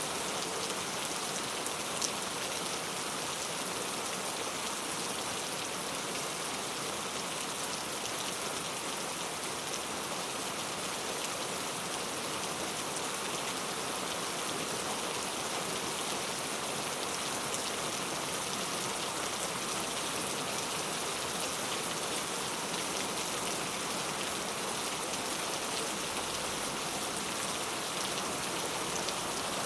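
Heavy rain falling steadily on street surfaces, an even hiss of many drops, with one sharper drop tick about two seconds in.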